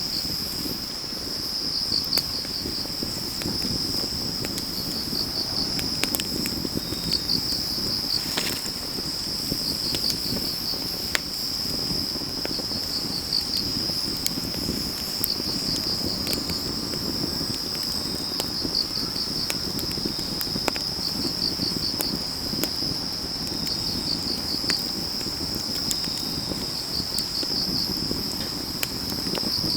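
Autumn crickets trilling steadily, with another insect chirping in short pulsed bursts every couple of seconds. Underneath, a wood fire burns with a low steady rush and scattered sharp crackles and pops, one louder pop about eight seconds in.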